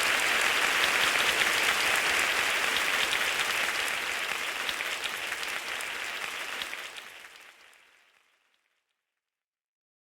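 Heavy rain pouring down, a dense steady patter full of fine drop clicks, that fades away to silence near the end.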